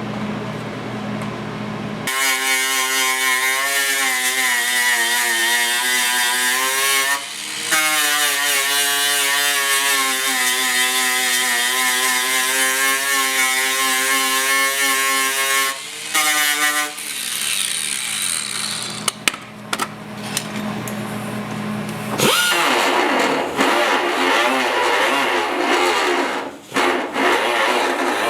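Power grinder grinding thick lead body filler out of a panel seam. Its whine wavers in pitch as the load changes, drops out briefly about seven seconds in, and turns rougher and noisier from about sixteen seconds on.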